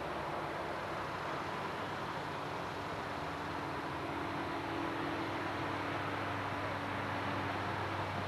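Steady rumble and hiss of a diesel freight train running, with a faint engine hum that swells a little midway.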